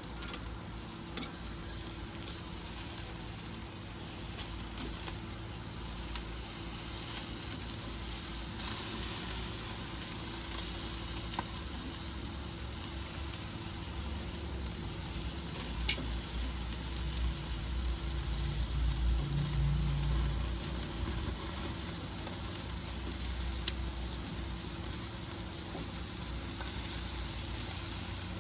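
Chicken sizzling on a barbecue grill: a steady hiss with occasional sharp pops.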